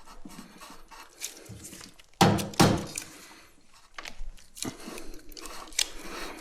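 Knocks and clatter of hard objects being handled: two loud strikes close together about two seconds in, then lighter knocks.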